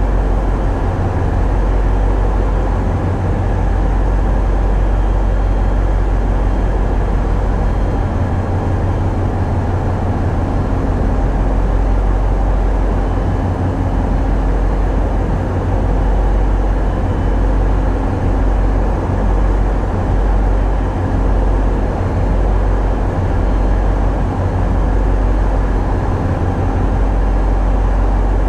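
Tugboat's diesel engines running steadily, a loud constant low rumble heard on board.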